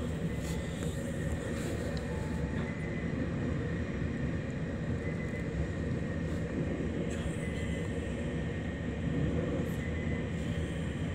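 Local passenger train running along the track, heard from inside at the front: a steady rumble of wheels on the rails, with a faint high steady tone and a few light clicks.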